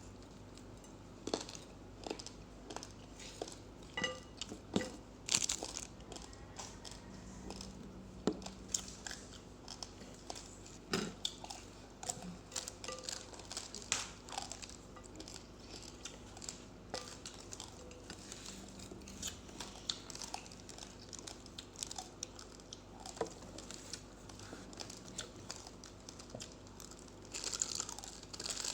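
A person chewing uncooked rice close to the microphone: irregular crisp crunches, denser near the end.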